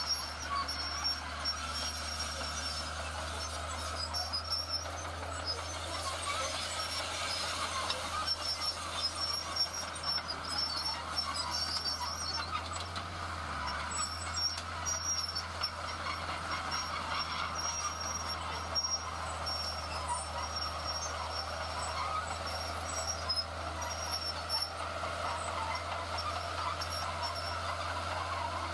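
Heavy diesel construction machinery running steadily, with a constant low engine drone and a high thin squeal or beeping that comes and goes.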